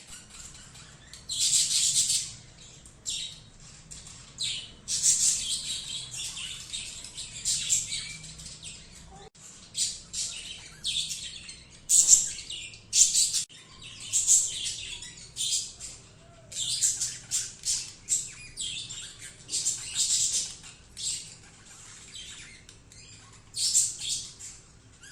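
Pet budgerigar chirping and chattering in short, irregular bursts of high-pitched calls with brief gaps between them.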